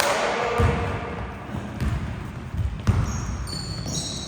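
Basketball being dribbled on a hardwood court: repeated low bounces about twice a second, with a sharper knock about three seconds in. Sneakers squeak on the floor near the end, after a brief rush of noise at the very start.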